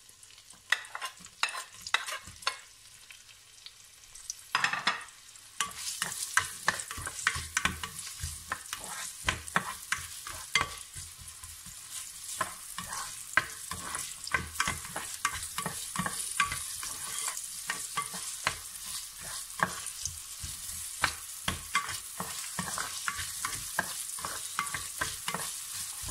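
Sliced ginger and chopped onion frying in hot oil in a steel pot, stirred with a spatula that scrapes and taps against the pot many times. The sizzle comes up and holds steady from about five seconds in.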